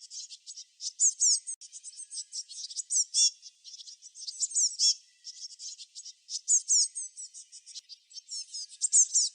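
Small songbirds chirping in a rapid, continuous chatter of high, quick notes, many of them short sweeping whistles.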